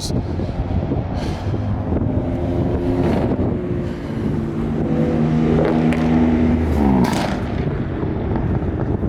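A car engine running at a steady pitch for a few seconds, then dropping in pitch about seven seconds in, over a constant background din.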